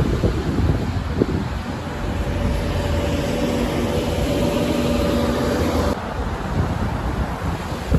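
Wind buffeting the microphone over steady traffic noise. From about two seconds in, a passing vehicle adds a steady pitched hum that stops abruptly about six seconds in.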